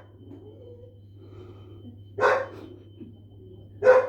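A dog barking twice, single barks about a second and a half apart: one about two seconds in and one near the end.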